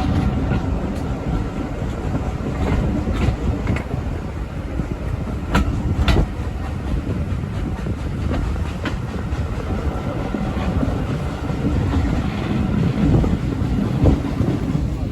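Heritage railway carriage running along the line: a steady low rumble with wheels clicking over rail joints at irregular intervals.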